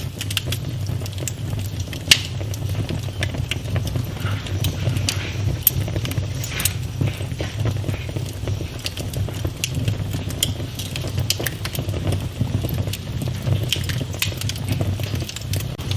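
Wood fire burning in a fireplace: a steady low rumble of flames with frequent sharp crackles and pops, two louder pops about two seconds and six seconds in.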